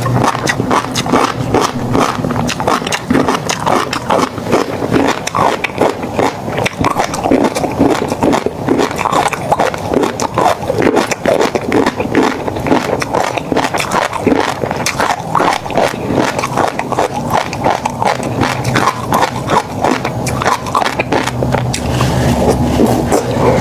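Close-miked mukbang eating of tobiko (flying fish roe): wet chewing with a dense, rapid crackle of tiny pops. A low hum comes in near the end.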